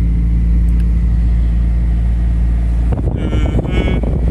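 Turbocharged Honda Accord engine heard from inside the cabin, running with a steady low drone while the car drives slowly. About three seconds in, the steady note gives way to a rougher rumble, and two brief higher-pitched sounds follow near the end.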